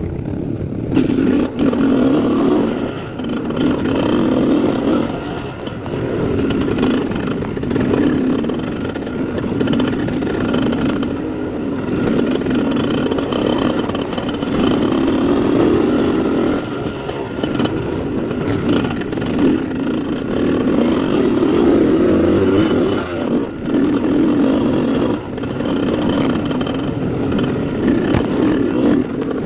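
Dirt bike engine running under way, its throttle opening and easing every few seconds, with rattling and scraping noise mixed in.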